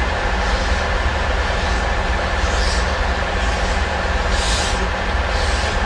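Soviet L-class 2-10-0 steam locomotive L-0022 starting a train: slow exhaust chuffs, about one a second, get louder from about halfway in, over a steady hiss of steam and a low rumble.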